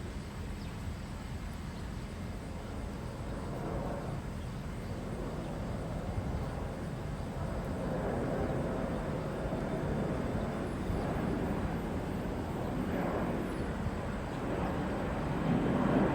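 Steady low outdoor rumble of distant engine noise, growing louder through the second half.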